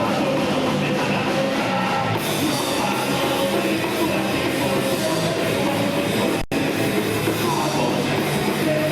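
Live rock band playing at full volume: guitars and a drum kit, with some vocals. The sound cuts out for an instant about two-thirds of the way through.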